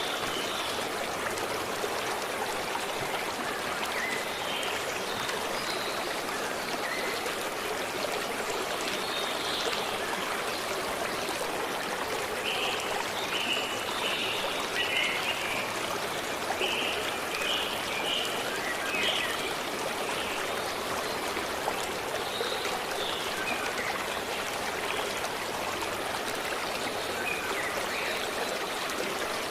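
Forest stream flowing steadily over rocks, with short high bird chirps scattered over it, most of them in the middle.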